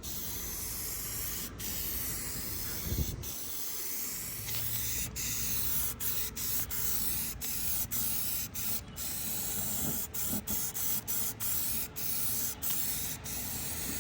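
Aerosol spray paint can spraying appliance paint in a steady hiss, broken by many brief gaps where the nozzle is let go and pressed again. The gaps come more often in the second half, about one or two a second.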